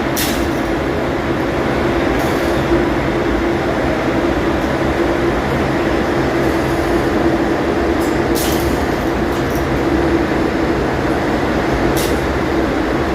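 Ship's engine-room machinery running steadily: a loud, even drone with a steady hum, and three short, sharp high-pitched sounds at the start, about two-thirds of the way through and near the end.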